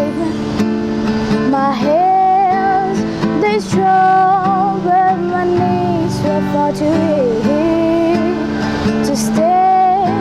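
A voice singing long, wavering held notes over strummed acoustic guitar.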